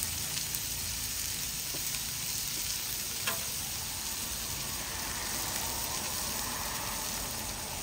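Smash burgers frying on a hot griddle: a steady sizzling hiss, with a single short click about three seconds in.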